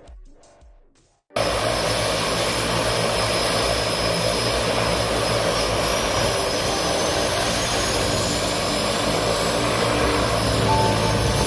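Music fading out, then just over a second in a loud, steady engine-like drone cuts in abruptly and holds evenly.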